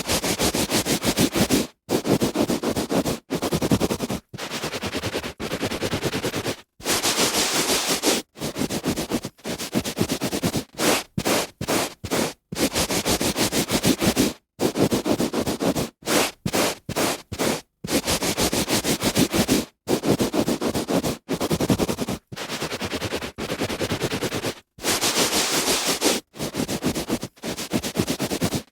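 A hand rubbing back and forth on carpet, a dry brushing swish made of quick strokes, in runs of one to two seconds broken by short pauses.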